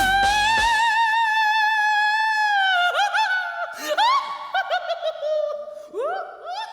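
A high operatic voice holds the closing note of the theme song with vibrato while the accompaniment dies away, then breaks into quick swooping glides up and down like a warbling, ghostly laugh.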